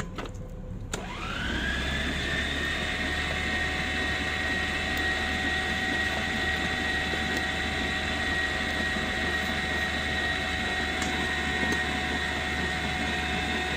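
Electric stand mixer switched on with a click, its motor spinning up within about a second to a steady whine as it mixes and kneads bread dough.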